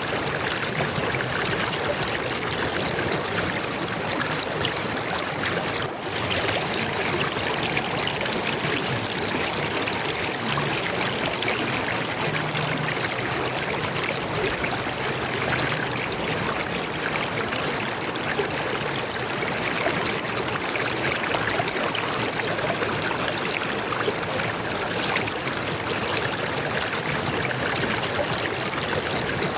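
Running water of a stream, a steady even wash of trickling and flowing sound, with a momentary drop about six seconds in.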